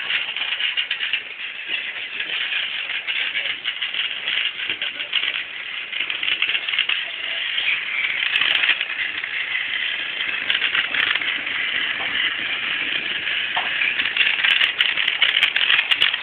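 Motorized Thomas the Tank Engine toy train running along its track, a steady dense clicking rattle.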